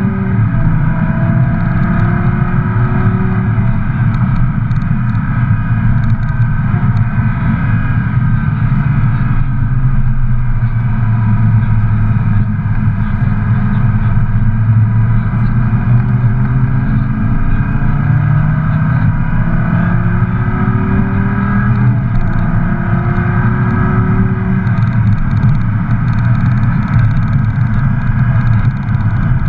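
Lamborghini Gallardo Balboni's V10 engine pulling hard through the gears, its pitch repeatedly rising under acceleration and dropping back at each shift or lift-off, over heavy road and wind noise.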